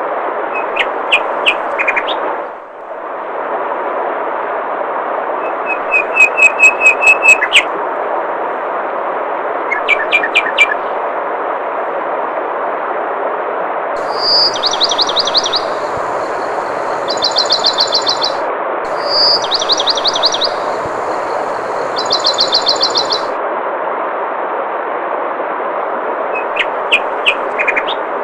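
Steady rush of flowing water with small birds chirping over it: short chirps and quick series of notes, and in the middle a song phrase of a clear whistled note followed by a fast trill, heard twice. The water briefly drops out and swells back a couple of seconds in.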